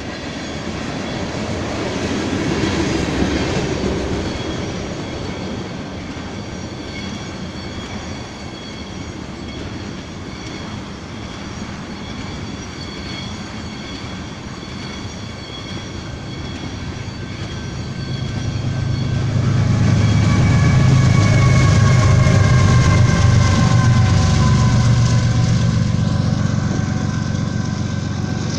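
A long tanker goods train rolling past, wagons clicking over the rail joints with steady high tones above the running noise. About two-thirds through a louder low engine sound swells and its tones fall in pitch as it passes, then eases off near the end.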